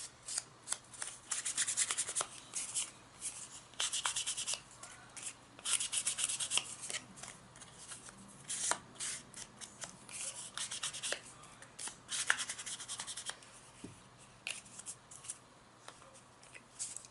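Paper cards and cardstock being handled, slid into place and rubbed flat by hand, in a series of short scratchy rubs with a few light taps and clicks.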